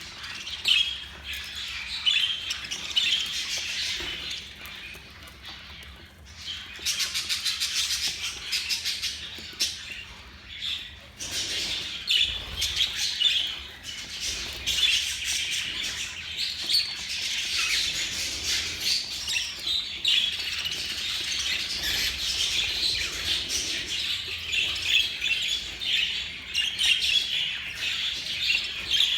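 A flock of budgerigars chattering, chirping and squawking without a break, with a quick run of rapid pulses about seven seconds in.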